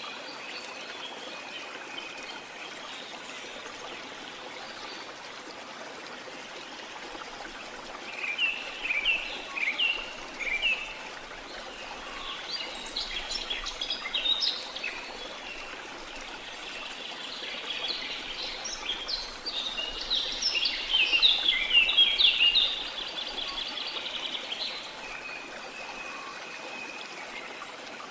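Steady rush of a waterfall with birds singing over it in bursts of quick chirping phrases, about a third of the way in, near the middle, and loudest a little past two-thirds of the way through.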